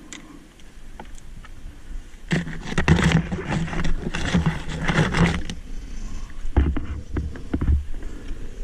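Dirt bike engine revved and held at a steady pitch for about three seconds, then a few low thumps.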